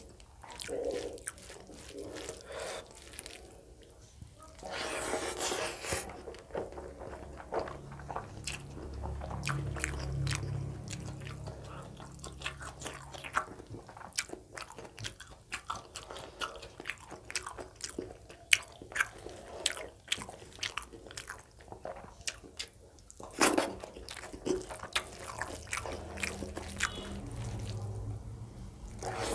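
Close-miked eating: a person chewing and smacking a meal of rice, dal and fried vegetables, with many quick sharp clicks. There are two longer swishing noises, about five seconds in and again about twenty-three seconds in.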